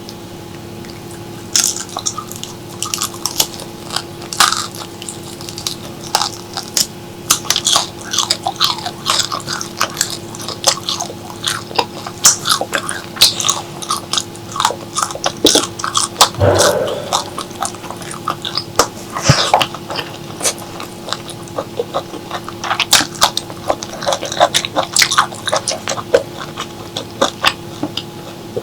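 Close-miked eating: crisp bites, crunching and wet chewing in quick irregular succession, over a faint steady hum.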